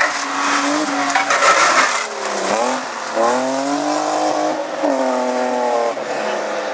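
A rally car's engine under hard driving. For the first two seconds there is noisy tyre and skid sound. About two and a half seconds in the revs dip and then climb again as the car accelerates. The engine note then holds, changes once near five seconds, and fades as the car goes by.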